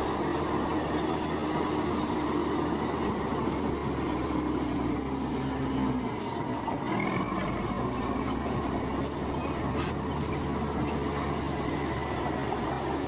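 Heavy diesel earthmoving machinery running steadily. The low engine note eases briefly about six seconds in, then settles again.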